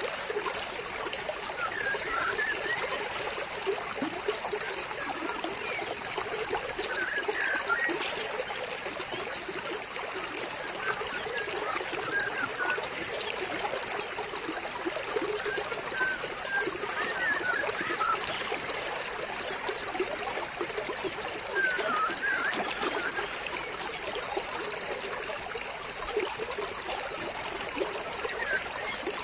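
Stream water flowing and trickling steadily, with short bird chirps every few seconds.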